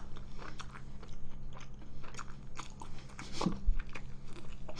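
A person chewing a mouthful of instant jjajang noodles close to the microphone: irregular wet clicks and smacks from the mouth.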